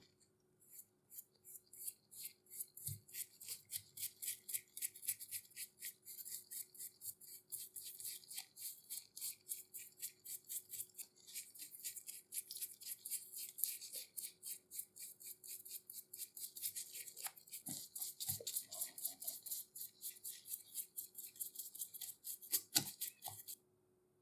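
Rhythmic back-and-forth strokes of a hand tool scraping or abrading a workpiece, about three a second, with a few knocks near the end before the strokes stop suddenly.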